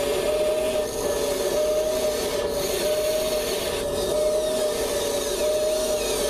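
Electric servos and gear motors of a Kabolite 970 all-electric RC excavator whining steadily as it works, the tone swelling and dipping about once a second over a grinding drone.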